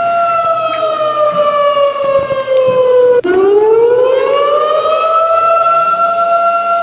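A siren sounding one steady tone that slides slowly down in pitch, breaks off abruptly about three seconds in, then climbs back up and holds its steady tone again.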